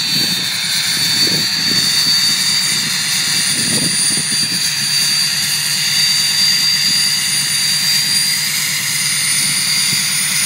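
Ford 6.0L Powerstroke V8 turbodiesel running at cold high idle, a steady high-pitched turbocharger whistle over the engine's even low drone.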